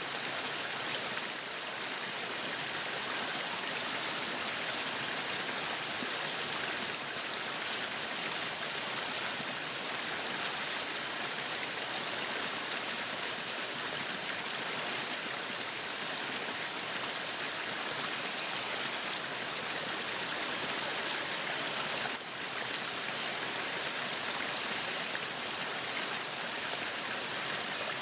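Meat sizzling on a yakiniku grill: a steady hiss that dips briefly about two-thirds of the way through.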